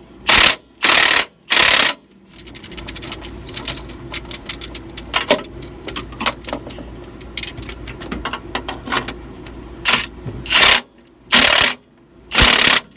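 Ratchet wrench and socket running a nut down onto a stud. Fast, fine ratchet clicking fills the middle, and there are three loud short bursts of ratcheting near the start and three more near the end.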